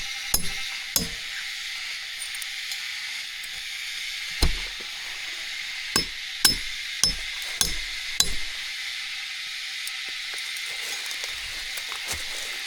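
A series of sharp, irregular knocks, like chopping or striking wood, clustered near the middle, over a steady high hiss.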